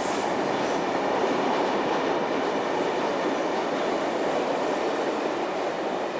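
Sydney electric commuter train running on the rails, a steady, even running noise with no change in level.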